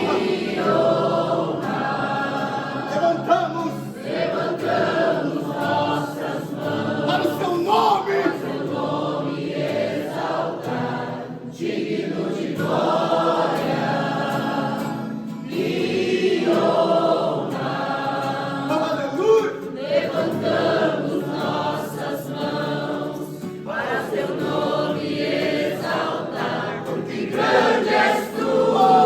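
Group of voices singing a worship song with musical accompaniment, in phrases several seconds long.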